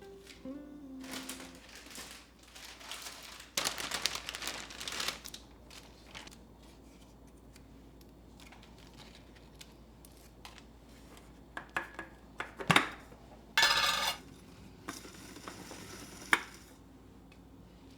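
Kitchen handling sounds: stretches of rustling and scraping with scattered sharp clicks and knocks of dishes, containers and utensils, the loudest knocks about three-quarters of the way through.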